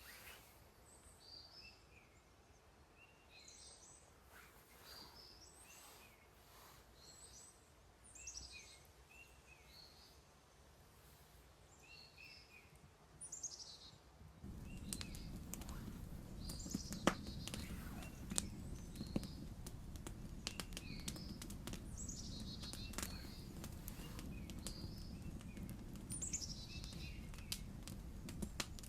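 Small birds chirping with short, repeated high calls in a forest. About halfway in, a steady low rumble starts, with scattered sharp crackles and clicks over it.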